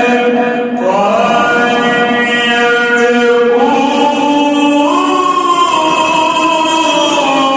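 Male voice reciting the Quran in melodic tajweed style, drawing out one long unbroken melismatic line. The pitch steps up several times and falls near the end.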